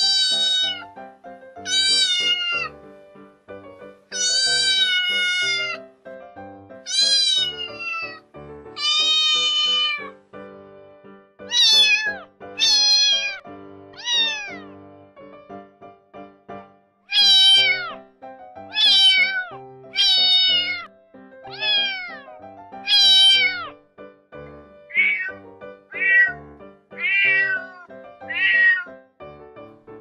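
Kittens meowing over and over: high-pitched meows, each about a second long and dropping in pitch at the end, coming every one to two seconds, with a few shorter, lower ones near the end. Background music runs underneath.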